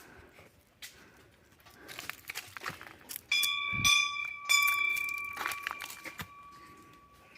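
A hanging metal temple bell, struck twice: a sudden ring about three seconds in and a second strike a second later, each ringing on with a clear, fading tone. Light clicks and rustling come before it.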